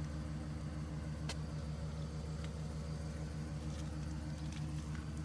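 Steady low hum of a car's engine, heard from inside the car, with a few faint clicks.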